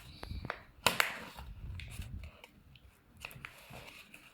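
Paper being handled and creased: a few sharp crinkles and taps of a folded paper sheet, the loudest about a second in.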